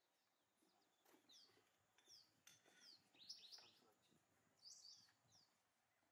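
Birds chirping faintly: a scatter of short, quick, downward-sliding chirps, busiest in the middle, with a few faint knocks among them.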